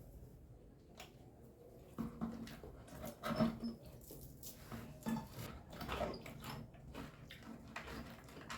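Light, scattered clicks and knocks of kitchen utensils and dishes being handled, with two brief low pitched sounds about three and a half and six seconds in.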